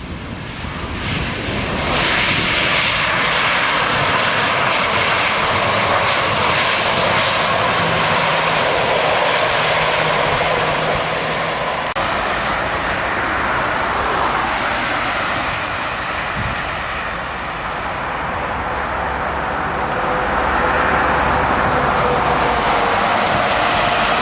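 Airliner engines running as a plane comes in to land. The noise swells over the first couple of seconds, holds loud, eases slightly about two-thirds of the way through, then swells again, with a steady whine near the end.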